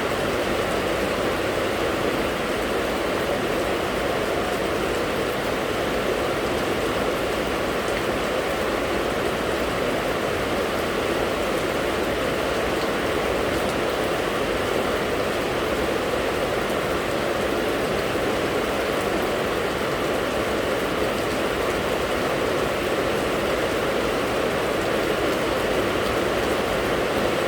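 Steady rain falling, an even unbroken hiss that holds at one level throughout.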